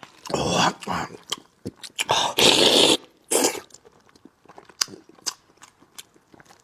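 Close-up eating sounds of a person slurping and sucking at braised fish head in several noisy bursts, the loudest and longest about two to three seconds in. A few sharp small clicks follow.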